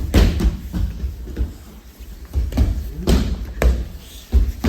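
Irregular thuds and slaps of aikido practitioners being thrown and taking breakfalls on the mat, about eight impacts, over a low rumble with the echo of a large hall.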